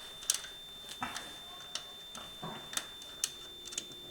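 Irregular light metallic clicks and a few soft knocks from a hand tool tightening the top screw on a tractor's three-point hitch bar, about nine in all.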